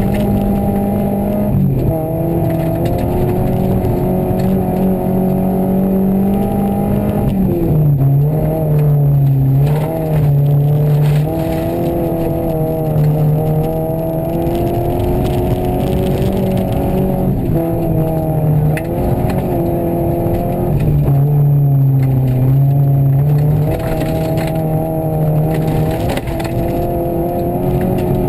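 Rally car engine running hard at high revs, heard from inside the cabin, its note stepping up and down abruptly several times as the car shifts gears and changes speed.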